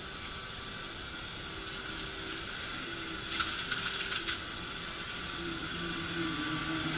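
Vacuum cleaner running steadily, with a cluster of clicks and rattles about halfway through.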